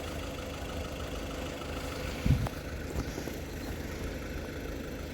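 An engine idling steadily with a low rumble and a faint steady hum, with one short low thump a little over two seconds in.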